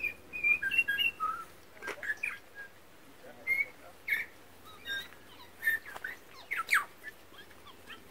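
Birdsong: short, clear whistled notes and quick downward-sweeping chirps at irregular intervals, with a cluster of whistles in the first second.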